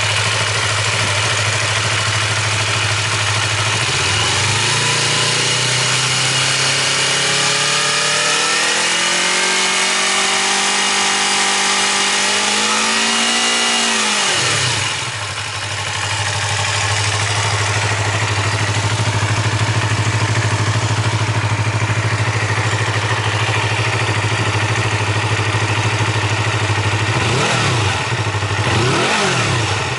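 Yamaha MT-25's parallel-twin engine running through an aftermarket Yoshimura muffler: idling, then revved slowly up over several seconds and dropped back to idle about halfway through, with two quick throttle blips near the end.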